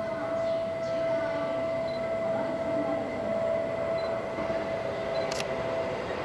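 Electric commuter train on the Seibu Ikebukuro Line running at the station, with a steady high tone sounding over it.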